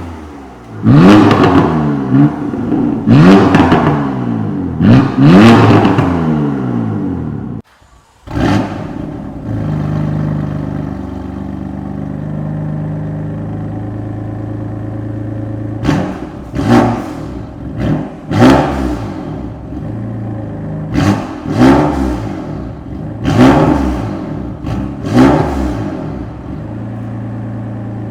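BMW M3/M4's S55 twin-turbo straight-six through a single midpipe exhaust, revved hard three times, then settling to a steady idle after a brief cut. About halfway through, a series of about seven short, sharp throttle blips rises from the idle.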